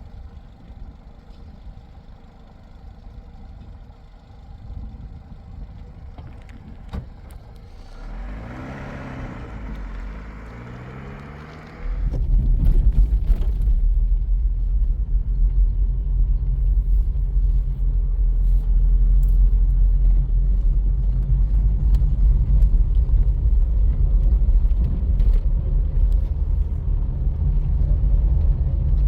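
Motor vehicle rumbling: quiet at first, with a passing hiss of noise, then a loud steady low rumble from about twelve seconds in.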